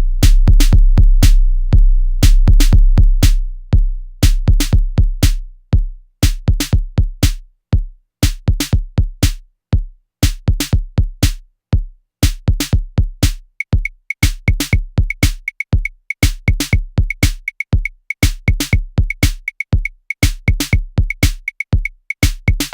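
Novation Circuit groovebox playing a looping electronic drum pattern: dense, evenly timed percussive hits over a deep bass note. About two-thirds of the way in, a short high-pitched blip joins and repeats with the beat.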